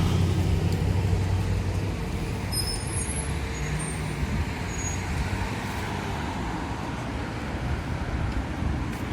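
City street traffic: a passing vehicle's engine hum, loudest at first and fading after about two seconds, over steady road noise. A few short faint high chirps sound about three to five seconds in.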